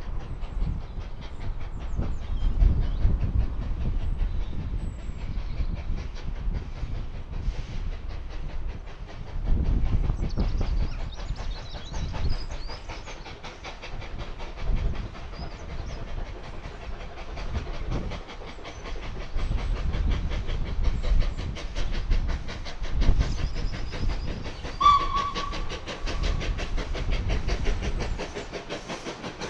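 Steam tank locomotive hauling carriages and working steadily closer, with a heavy, uneven rumble and steam blowing from its cylinders. A short, clear whistle sounds near the end.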